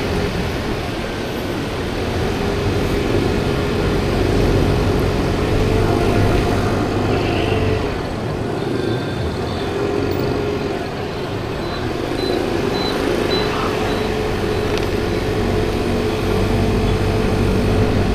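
A 50cc scooter being ridden through traffic: a steady engine hum that drifts a little up and down in pitch, over continuous wind and road noise.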